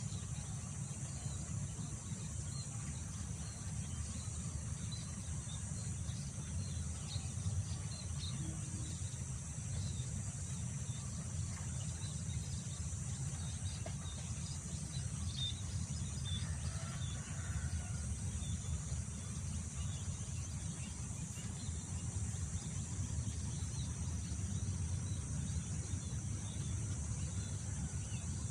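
Outdoor field ambience. Wind rumbles steadily in the lows, and a constant high insect drone runs over it. Faint bird chirps are scattered throughout, with a slightly fuller bird call a little past the middle.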